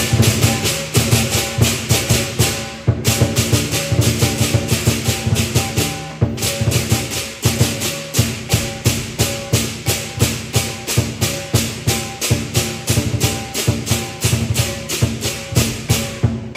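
Lion dance percussion: a big drum and clashing cymbals beating a fast, driving rhythm, with short breaks about three and six seconds in.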